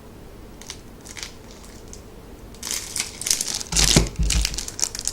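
Plastic packaging crinkling as items are handled, in a few short rustles, then a busier stretch of crackling from a bit past halfway, with a heavier handling bump about four seconds in.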